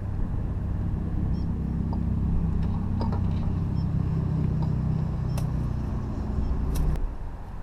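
A boat motor running with a steady low hum, then cut off abruptly about seven seconds in.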